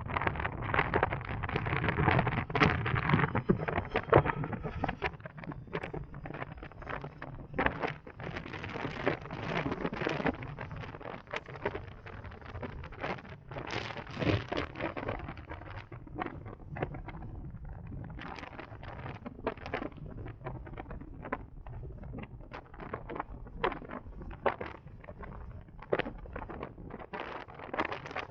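Wind buffeting the microphone with road noise while riding an electric motorcycle, with no engine sound. It gusts and crackles unevenly and is loudest in the first few seconds.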